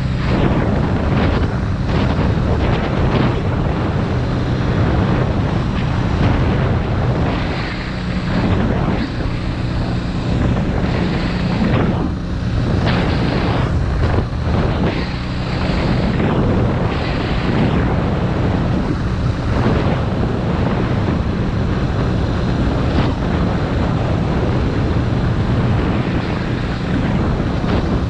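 Suzuki DR650RSE's single-cylinder four-stroke engine running at a steady cruise while the bike is ridden, with wind buffeting the microphone in irregular gusts.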